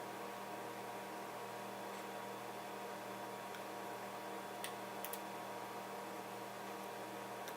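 Steady electrical mains hum with a low buzz and a thin higher tone, with two or three faint light clicks about five seconds in.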